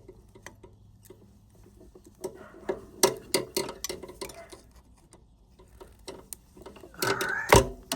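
Needle-nose pliers working a wire's push-on connector off a chest freezer's compressor terminal: a run of small metal clicks and scrapes, then a louder snap near the end as the connector comes free.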